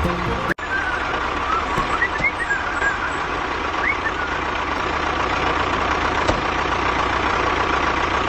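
Mini tractor engine running steadily, with a few short high chirps in the first few seconds and a brief dropout about half a second in.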